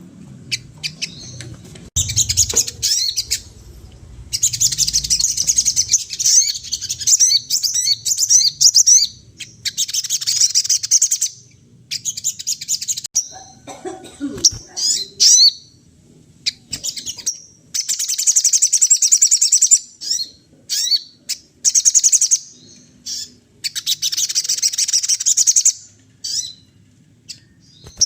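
A sogon songbird in full song: long, rapid, high-pitched chattering phrases of a second or two each, with short pauses between them.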